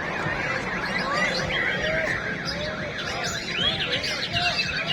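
Many caged white-rumped shamas (murai batu) singing at once: a dense, overlapping chorus of whistled rising and falling notes and chirps.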